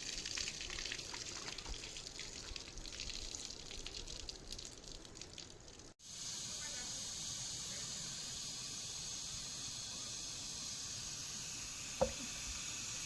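Water running and splashing unevenly for about six seconds, then, after a cut, a steady hiss of heavy rain. A single sharp click comes near the end.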